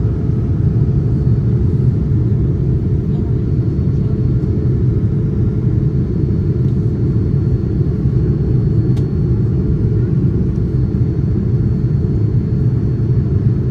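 Steady low roar of a Boeing 787-9's engines and airflow, heard from inside the passenger cabin in flight, with a faint click about nine seconds in.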